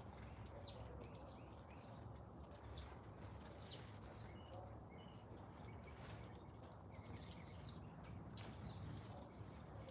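Faint garden birdsong: several birds giving short, high chirps and whistles scattered throughout, over a steady low background rumble.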